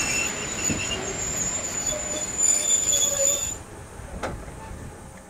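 Narrow-gauge train's wheels squealing steel on rail, a high steady squeal over running noise that stops about three and a half seconds in, followed by a single sharp knock.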